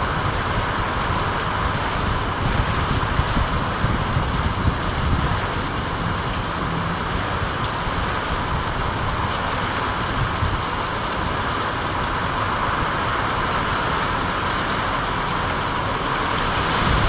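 Steady rainfall, an even hiss of falling rain with a low rumble underneath.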